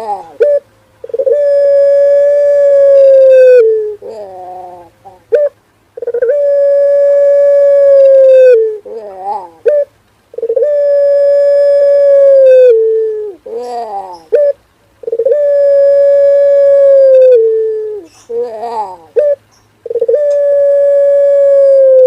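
Male puter pelung dove calling: a series of long, drawn-out coos, each held steady for about two and a half seconds and dropping at the end, followed by a few short wavering notes. The pattern repeats about every four and a half seconds.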